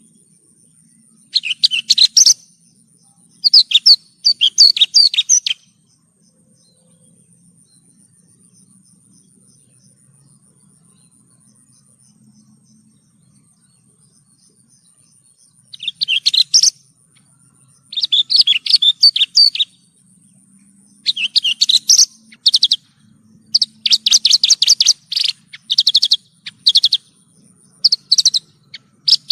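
Javan bush lark (branjangan) singing in bursts of rapid, high chirping phrases. A few phrases come near the start, then a pause of about ten seconds, then the phrases return and come more and more often through the second half.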